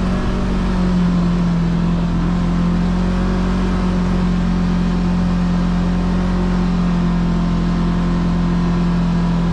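Side-by-side UTV engine running at a steady cruising speed, a constant drone with a slight lift in pitch about a second in.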